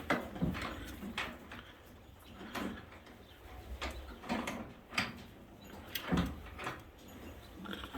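Pigeons stirring in their loft cages: irregular knocks, scrapes and rustles, a dozen or so scattered through, with a low animal sound here and there.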